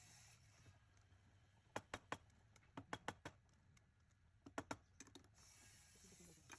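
About a dozen light, sharp clicks or taps in quick clusters of two to four, starting about two seconds in, over faint background hiss.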